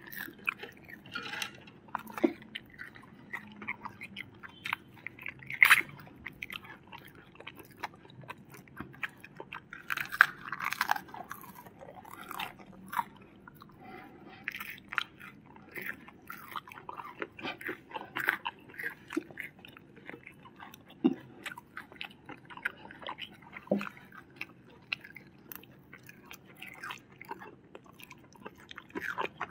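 Close-miked chewing and biting of food, with frequent irregular crunches and mouth clicks as crispy fried chicken is eaten; a few sharper crunches stand out about six and ten seconds in.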